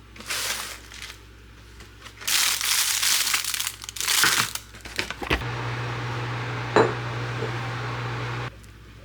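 Packaging crinkling in three bursts, then a click and a steady machine hum with a whooshing fan-like sound that runs for about three seconds and cuts off suddenly.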